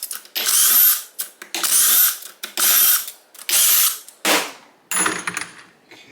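A handheld power driver spinning in short bursts of about half a second, several in a row, each opening with a rising whine as the motor spins up. It is running bolts out of a motorcycle engine case.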